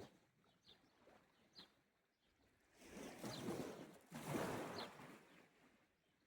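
Gentle sea waves washing onto the shore in two swells, the first about three seconds in and the next just after. A bird gives short, faint chirps about once a second.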